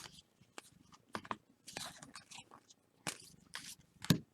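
Trading cards and pack wrappers being handled: short, irregular rustles and slides of card stock, with a heavier thump just after four seconds in.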